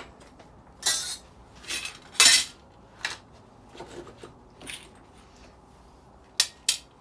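Small metal parts from dismantled light fittings clinking and clattering as they are handled and set down: a string of separate knocks, the loudest about two seconds in, and two sharp clicks near the end.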